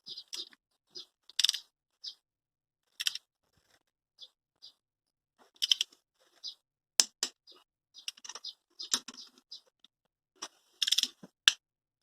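Scattered clicks, clinks and scrapes of hand tools and metal engine parts being handled, a few at a time with short quiet gaps, the sharpest click about seven seconds in.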